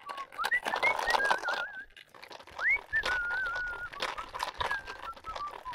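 A baby monkey crying: several high-pitched, drawn-out calls that each rise sharply and then waver, with scattered clicks and rustling.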